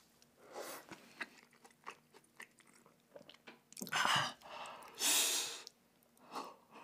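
A person chewing a mouthful of crunchy fried food close to the microphone, a run of small crunches and wet mouth clicks. Two louder bursts of noise break in about four and five seconds in.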